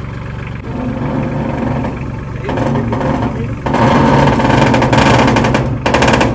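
A vehicle engine idles steadily while a loud, noisy mechanical sound builds over it, loudest over the last couple of seconds, ending in a rapid run of clicks.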